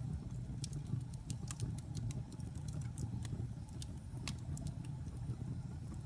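Wood fire burning in a fireplace: a low, steady rumble of flames with irregular sharp crackles and pops, a few each second.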